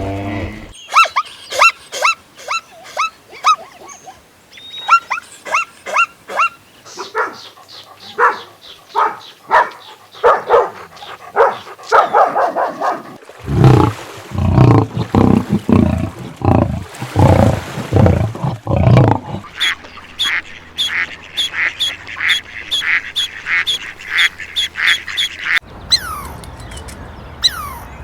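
Animal calls in quick succession, changing every few seconds: runs of short, falling, high calls, then a run of loud, deeper calls about halfway through, then rapid high-pitched calls and a few falling glides near the end.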